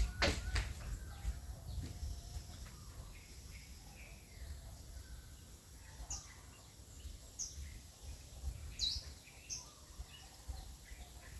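Small birds chirping outdoors: short, high, falling chirps come every second or so through the second half, over a fluttering low rumble. A few sharp clicks sound right at the start.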